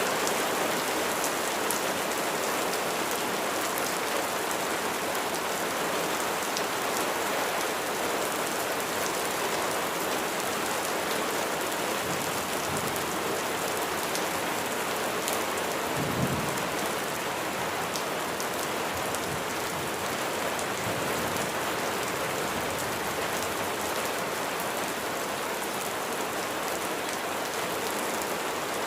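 Steady heavy rain, a dense hiss with fine drop ticks. A low rumble of thunder swells and fades around the middle.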